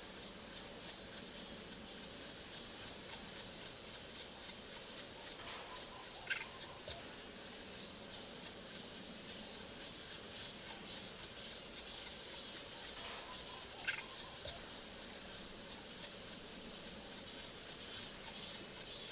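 Insects chirping in a rapid, high, pulsing pattern, with two sharp knocks about 6 and 14 seconds in.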